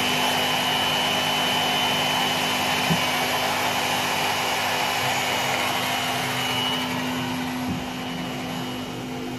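Homemade table saw's motor and blade running steadily at part speed on a dimmer, very noisy, with a steady hum and a high whine. Near the end it turns quieter as the hinged plywood soundproofing lid is closed over it.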